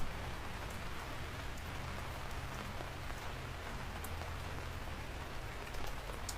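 Steady rain falling, an even hiss over a constant low rumble, with a few sharp drip ticks, one about four seconds in and another near the end.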